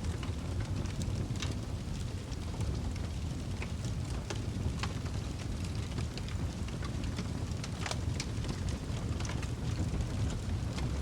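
Wood fire burning in a fireplace: a steady low rumble of flames with irregular sharp crackles and pops of the burning wood, a louder pop about eight seconds in.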